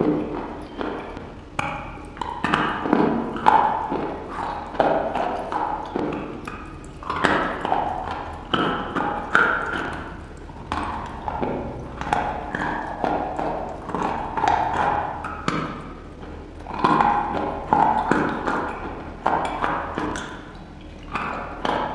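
Close-miked mouth sounds of biting into and chewing a soft, crumbly block, with clusters of short clicks and smacks that come again every second or two.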